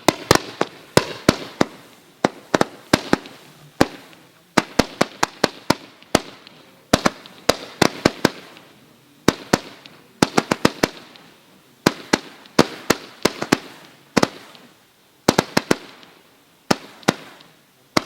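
Firework cake (T-SKY TS4115 'Double Struck Lightning') firing a rapid, uneven string of sharp bangs in clusters of two to four, each bang trailing off in a short fading echo.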